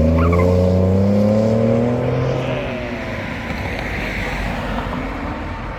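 A car's engine accelerating, its note rising steadily for about two and a half seconds, then fading away.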